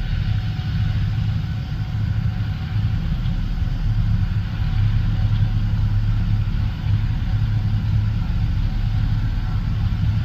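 Harvest machinery's diesel engine running steadily: a continuous low drone with an even mechanical hum above it.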